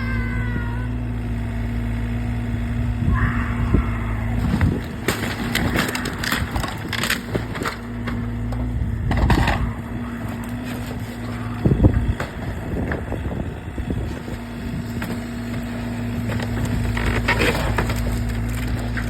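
XCMG XE35U mini excavator's diesel engine running steadily, with irregular crunching and cracking as the machine works. The crunches come thickly from about four seconds in through the middle, and again near the end.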